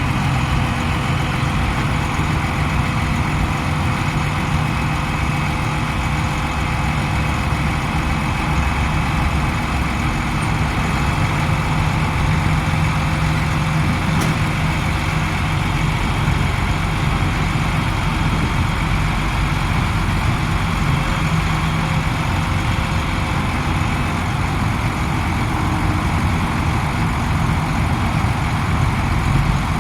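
1993 Ford FT900 dump truck's diesel engine idling steadily.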